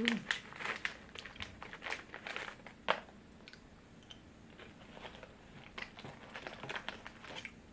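Someone chewing crunchy caramel corn, making a run of small crisp crunches that is densest in the first few seconds, thins out, then picks up again near the end. The snack's plastic bag crinkles as it is handled.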